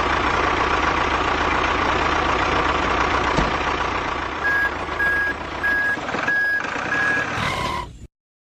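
A vehicle engine running steadily. About halfway through, a reversing alarm beeps five times at an even pace. The sound cuts off abruptly near the end.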